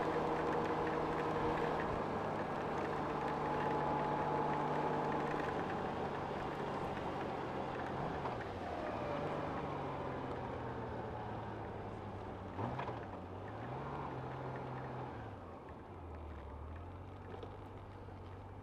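Honda Gold Wing motorcycle engine running on the move, with wind and road noise. The engine note dips and recovers a few times, with a single knock about twelve seconds in. Toward the end the wind and road noise fade and the engine settles to a lower note as the bike slows.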